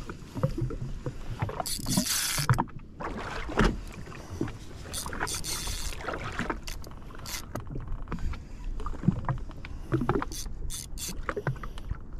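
Water slapping and splashing against a Sea-Doo FishPro jet ski's hull, with irregular knocks and bumps.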